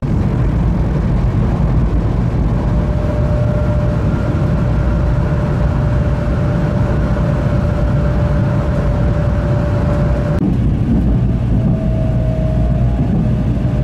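A train running, heard from inside the carriage: a steady rumble with a faint steady whine over it, the sound shifting slightly about ten seconds in.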